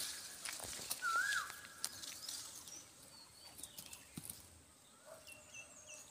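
Wild birds calling: a clear whistled note that rises then falls, about a second in, then fainter short high chirps, over faint rustling.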